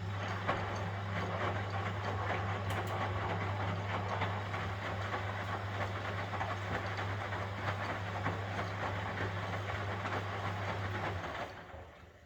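1971 Constructa Garant 491 washing machine's drum motor switching on with a click and running steadily, a low mains-like hum under a dense clatter of the drum turning the wash. It cuts out about eleven seconds in, the drum coasting down as the wash rhythm pauses before reversing.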